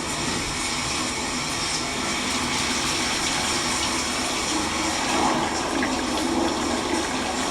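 Steady rushing noise like running water, cutting in abruptly and holding an even level.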